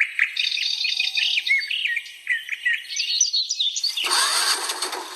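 Birds chirping rapidly in quick repeated notes. About four seconds in, a loud, fast, even mechanical rattle starts abruptly and keeps going.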